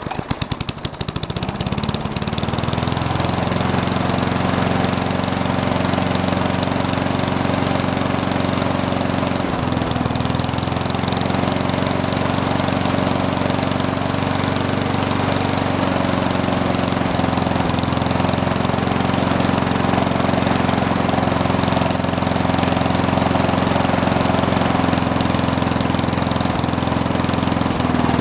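Push mower's small single-cylinder four-stroke engine, which has been fed dirt through its carburetor, running after a restart. It runs unevenly for about two seconds, then settles into steady running.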